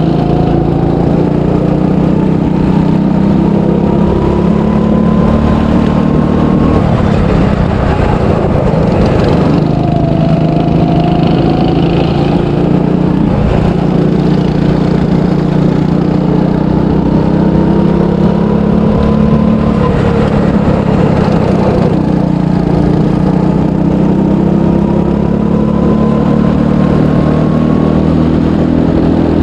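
300cc go-kart engine being driven hard, its note climbing steadily in pitch as the kart accelerates, then falling back twice as it eases off for corners before climbing again.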